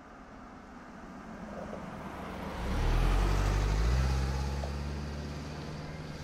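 A motor vehicle passing by: its low engine hum grows to a peak about three seconds in, shifts in pitch near four seconds, then fades away.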